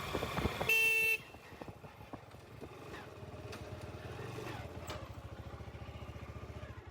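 Motorcycle engine running slowly, with a short, steady horn beep about a second in; the engine then drops to a quieter, even putter at idle.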